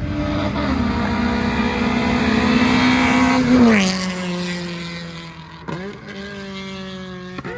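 A car accelerating hard: its engine note climbs steadily for about three and a half seconds, drops sharply at a gear shift, then fades as the car pulls away.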